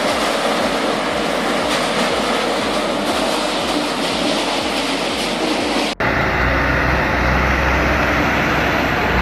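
A firewood processor running, a steady loud mechanical noise. About six seconds in it cuts abruptly to a heavy truck's engine with a deep low rumble.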